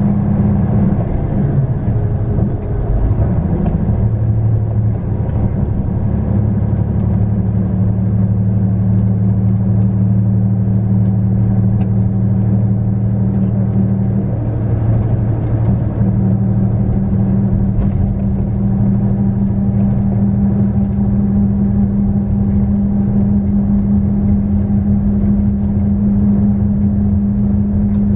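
2001 Hino Melpha 7 coach's diesel engine running with road noise while the bus is under way, a steady drone whose pitch shifts about three seconds in and again about fifteen seconds in.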